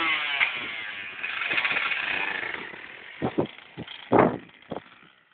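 Yamaha YZ125 two-stroke dirt bike engine revving with shifting pitch, then fading away about halfway through. A few short knocks follow, one louder than the rest near the end.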